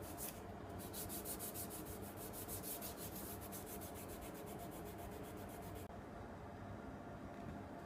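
Faint hand scrubbing during clean-up of the axle parts: rapid, even back-and-forth strokes that stop about six seconds in.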